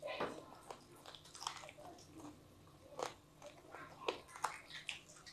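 A child chewing a mouthful of rice and chicken curry eaten by hand: wet chewing and lip-smacking with irregular sharp clicks, the loudest about three and four seconds in.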